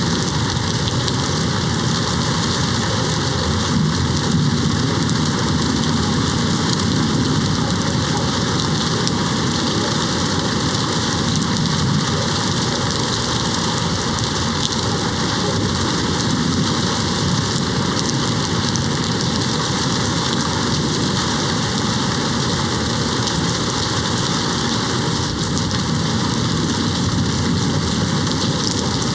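Steady, heavy rain hitting a window pane, an even, unbroken hiss of drops.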